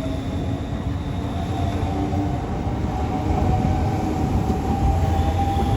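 Southeastern Class 395 Javelin electric train pulling out of the station. Its traction whine rises slowly in pitch as it accelerates, over a low rumble that grows a little louder.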